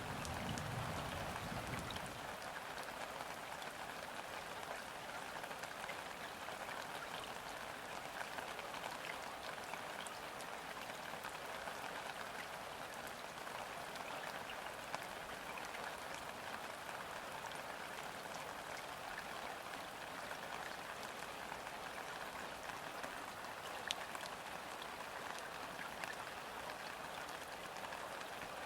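Steady rain falling onto a river's surface: an even patter of countless drops, with a few louder single drop hits now and then. A low rumble fades out about two seconds in.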